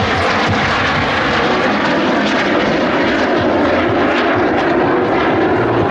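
Fixed-wing aircraft engine noise, steady and loud, from an airshow flypast.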